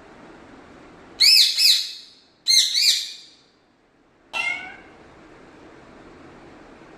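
Pet parrot vocalizing loudly: two double-note calls one after the other, then a short call that falls in pitch.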